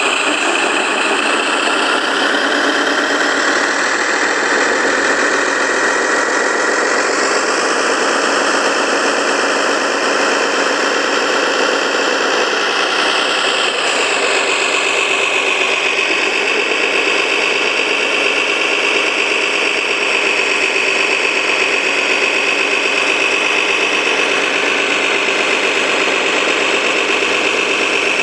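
Radio-controlled model truck running, a steady motor sound whose pitch rises over the first several seconds, falls back, and shifts to a steadier high whine about halfway through.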